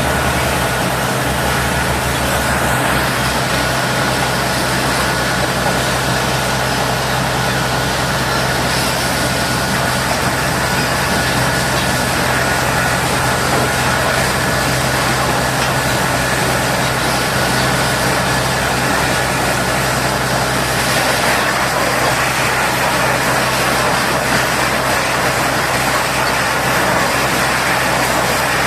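Large diesel engine running steadily at a constant speed, under an even rushing noise.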